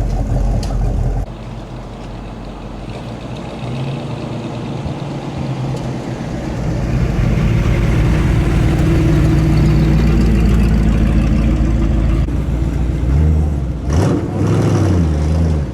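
Car engine rumbling as a car drives in, growing steadily louder over several seconds. Near the end the engine is briefly revved, its pitch rising and falling.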